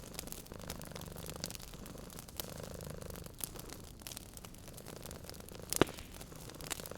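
A cat purring with a low, pulsing rumble, over the steady crackle of a wood fire in a fireplace. One louder pop from the fire comes near the end.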